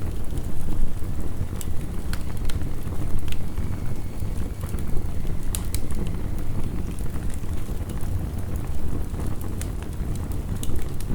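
Wood fire crackling, with scattered sharp pops, over the steady low rush of heavy rain.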